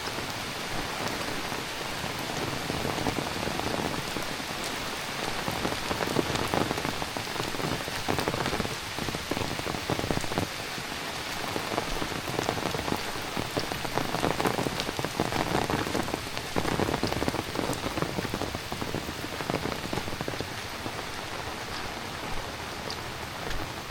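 Heavy rain falling steadily, with many close drop impacts. It grows louder and denser for a stretch in the middle, then eases back.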